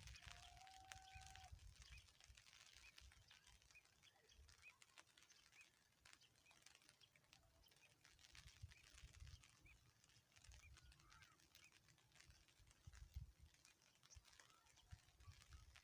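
Near silence outdoors: faint uneven low rumble and scattered light ticks, with a faint distant animal call held for about a second near the start.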